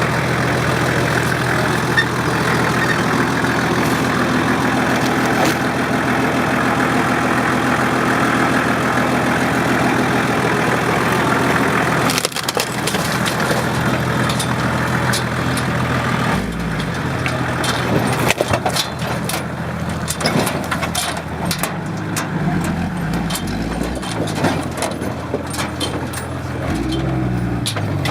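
Four-wheel-drive vehicle's engine running through a river crossing, under a dense rushing noise for about the first half. In the second half, knocks and cracks from the wheels and underbody come over an engine note that rises and falls as the throttle changes.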